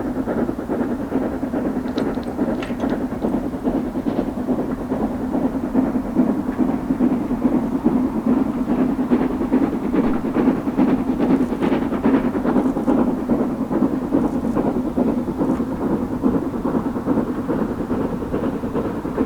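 Train running past on the line, a steady loud rumble of wheels and coaches on the track with a few faint clicks.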